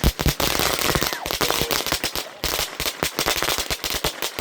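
Consumer fireworks going off in a rapid, irregular string of sharp bangs and cracks, many per second, with a loud bang at the start.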